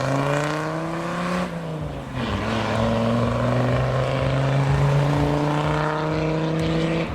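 A car engine accelerating away. Its pitch climbs, falls about two seconds in, then climbs steadily again.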